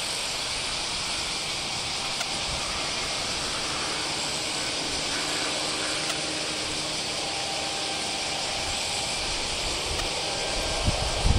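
A steady hiss of outdoor airport ambience, with a faint distant jet-engine hum underneath. A few low thumps come near the end.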